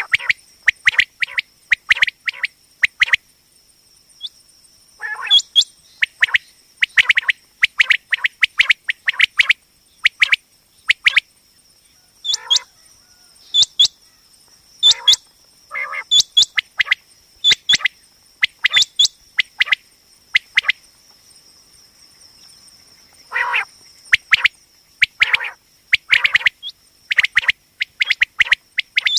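Common quail calling: short, sharp notes repeated in quick clusters, with a pause of a couple of seconds past the middle. A steady high-pitched tone runs underneath.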